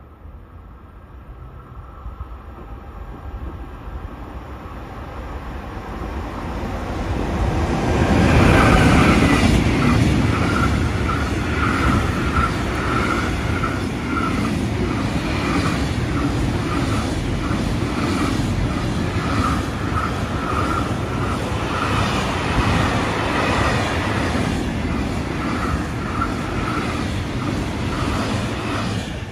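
Trenitalia regional express train approaching, growing louder for several seconds, then passing close by with a steady run of rhythmic wheel clatter on the rails.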